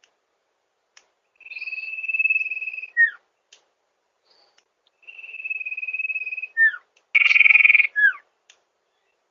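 Sirpu (sirdung) bird calling twice: each time a long, level whistle held for over a second, ending in a quick pair of falling notes. About seven seconds in comes a louder, harsher note, followed by another falling note.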